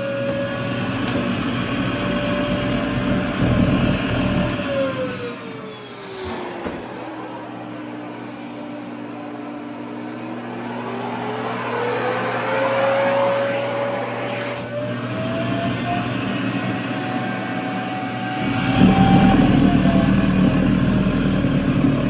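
Vacuum cleaner motor running with a steady whine while it sucks at a skirt's fabric. The whine drops in pitch about five seconds in, stays low for a while, then climbs back up and ends slightly higher, and a burst of louder rushing air comes near the end.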